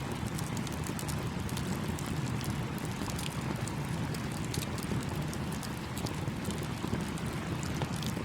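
Campfire crackling with frequent, irregular sharp pops over the steady rushing of a small stream.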